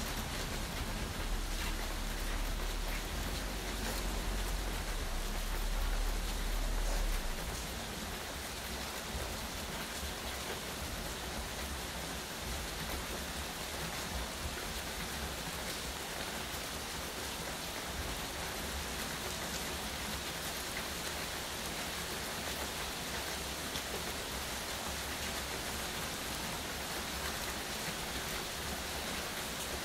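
Steady rain falling and pattering on surfaces. A low rumble sits under the rain for about the first seven seconds and then stops suddenly.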